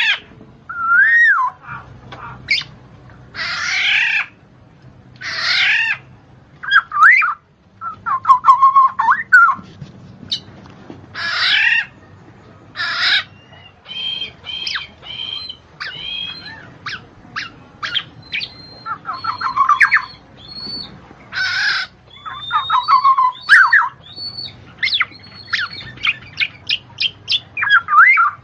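A bird calling: a varied run of harsh squawks, gliding whistles and quick series of short chirps, one after another with brief gaps.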